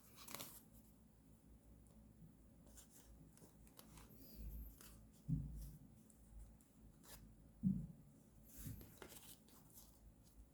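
Quiet desk-work sounds of paper journaling: light scratching and rustling of paper, with two short soft thumps a couple of seconds apart in the middle.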